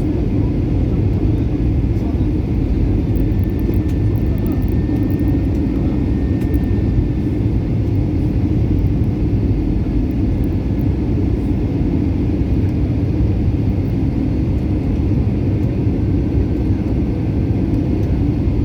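Steady low rumble of an airliner's engines and rushing air, even in level throughout.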